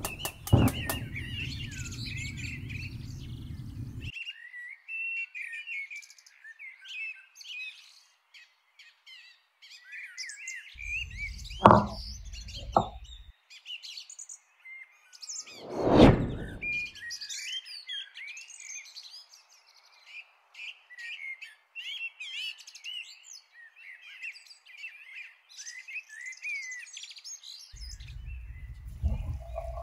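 Small birds chirping and twittering steadily, with a few louder sudden sounds around the middle.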